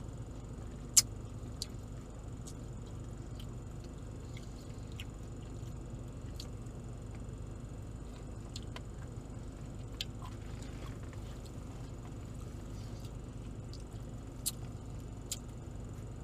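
Steady low hum of a car's idling engine and air conditioning, with a few short sharp clicks and smacks from eating ice cream with a spoon. The loudest click comes about a second in.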